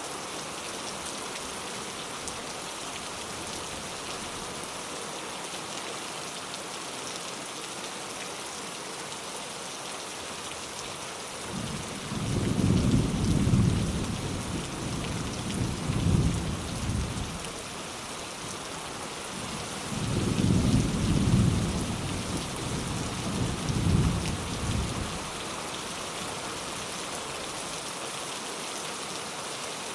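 Steady rain falling, with two rolls of light thunder: a low rumble swells about twelve seconds in and rolls for several seconds, and a second one follows about twenty seconds in.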